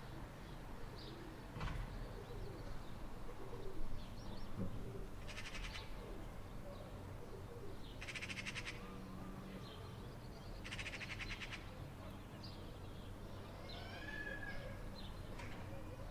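Birds calling with scattered short chirps, and three dry, rattling chatters about a second long each, a few seconds apart. A low steady hum runs underneath.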